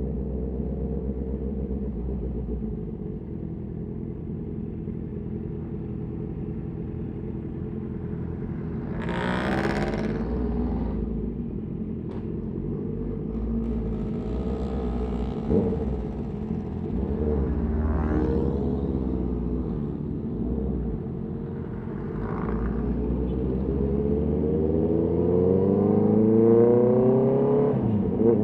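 Honda CB650R's inline-four engine running under way, its note shifting with throttle, then climbing steadily in pitch and getting louder over the last few seconds as the bike accelerates. A brief rush of noise about nine seconds in.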